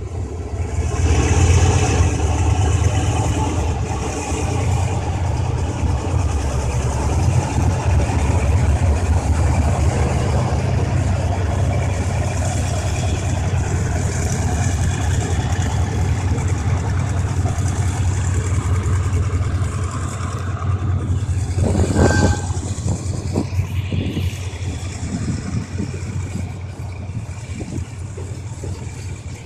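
Diesel locomotive's engine working as it pulls a passenger train out of the station, loudest in the first couple of seconds as it passes close. Then the steady rumble and rapid clicking of the carriages' wheels rolling by, with a brief sharp noise about three-quarters of the way through.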